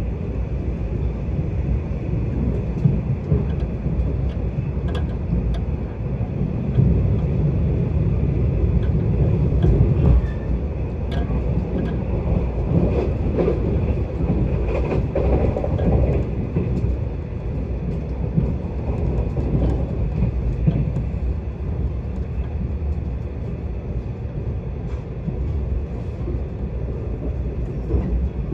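Korail Mugunghwa-ho passenger train running along the line, heard from inside the carriage: a steady low rumble of wheels on rail with occasional faint clicks. It grows louder for a few seconds about a quarter of the way in.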